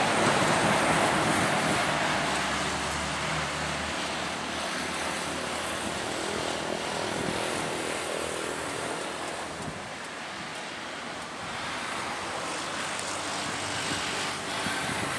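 Passenger train running away along the track, a steady rumble that fades gradually over the first several seconds.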